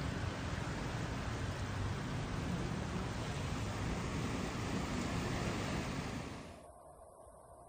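Water rushing as a steady, even noise with no distinct events, ending abruptly about six and a half seconds in, leaving a much quieter background.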